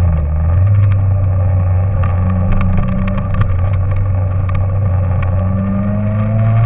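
An engine running steadily with a low drone, its pitch rising slightly near the end.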